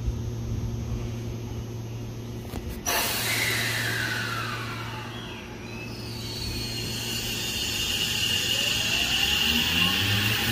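Seibu Ikebukuro Line electric commuter train pulling out of the station. A sudden hiss starts about three seconds in, then the traction motors' whine rises in pitch as the train gathers speed near the end.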